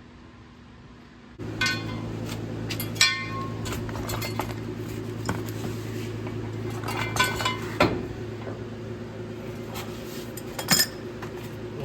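Metal clanks and clinks from steel jack stands being handled and set under a truck, a few of them sharp and ringing. A steady low hum runs underneath, starting suddenly about a second in.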